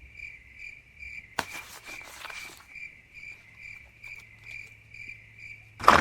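Cricket chirping sound effect: a steady run of short, high chirps, about four a second, the stock crickets effect for an awkward silence. A brief rustling hiss cuts across it about a second and a half in.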